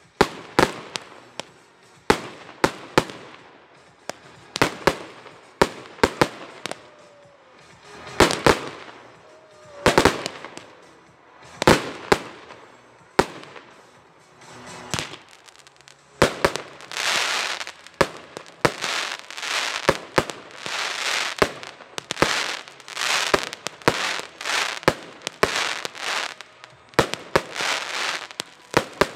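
Weco fireworks going off in a rapid series of sharp bangs, about one to three a second. From a little past halfway, hissing, crackling bursts of about half a second each come roughly once a second between the bangs.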